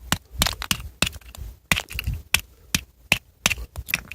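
Oyster shells being cracked and broken open, about a dozen sharp irregular cracks and knocks.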